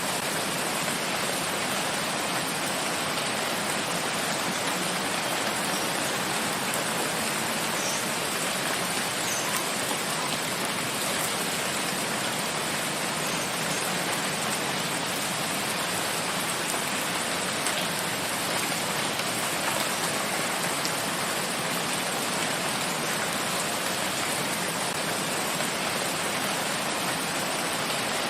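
Steady rain falling on forest foliage and ground, an even hiss of many drops with no let-up.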